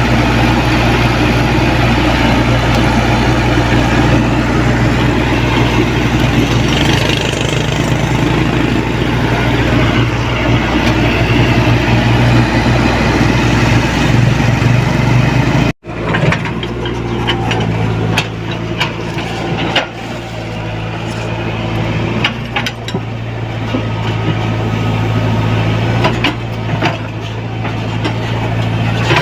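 Diesel engine of a Komatsu PC75UU mini excavator running steadily under work. There is an abrupt break about halfway through, and after it scattered clunks and knocks sound over the engine.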